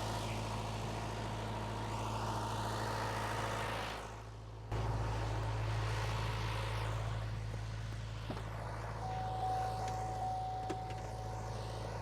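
Case 1840 skid steer's diesel engine running steadily. It drops away briefly about four seconds in and comes back abruptly. A steady high whine joins it for the last few seconds.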